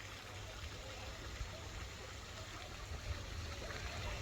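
Steady trickle of running water, with a low rumble of wind buffeting the microphone.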